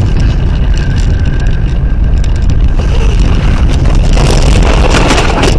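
Dashcam audio from inside a moving vehicle: a loud, steady rumble of engine and road noise, growing harsher and louder over the last second and a half.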